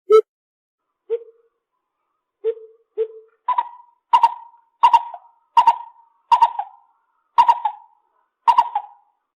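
Lesser coucal calling. It gives four spaced low hoots, then about seven higher, harsher calls about one every 0.7 s, each ending in a short falling tail.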